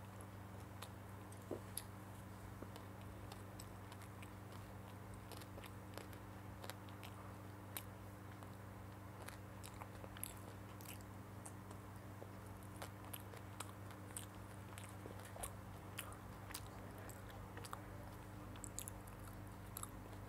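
Child chewing and biting a soft bread roll with chicken-mayo filling: faint, scattered mouth clicks and small chewing sounds over a steady low hum.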